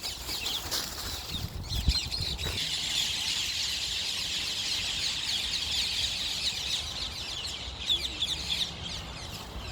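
A large flock of rose-ringed parakeets screeching together: a dense, continuous chatter of many overlapping shrill calls that thickens about two and a half seconds in. A brief low thud comes near the start.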